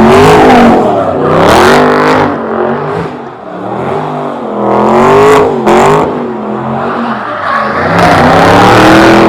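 A car engine is revved hard again and again, very loud, its pitch climbing and falling in repeated surges.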